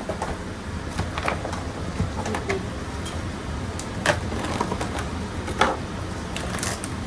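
Kitchen clatter: scattered clicks and knocks of utensils and containers being handled, the loudest about four seconds in and again near the middle of the sixth second, over a steady low hum.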